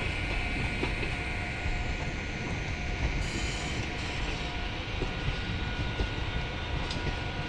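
Passenger train coaches rolling past as the train departs: a steady rumble of wheels on rail with occasional light clicks and a faint steady whine.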